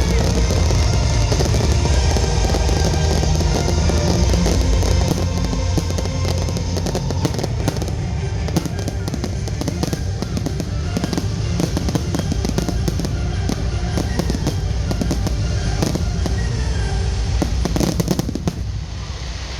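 A fireworks display: dense crackling and popping with a deep rumble, over music. The crackle thickens toward the middle and stops abruptly near the end.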